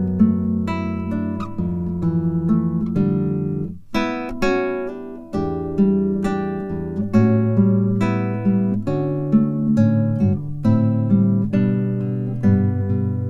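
Acoustic guitar music: a run of plucked and strummed notes and chords, with a brief break about four seconds in.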